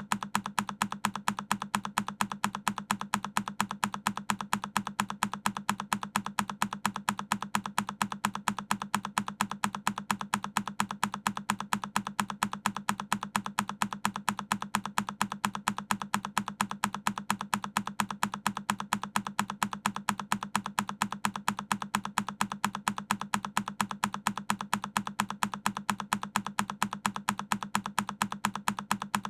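A single key on a Keychron K10 mechanical keyboard pressed over and over, looped, giving rapid, evenly spaced clicks at a steady rhythm.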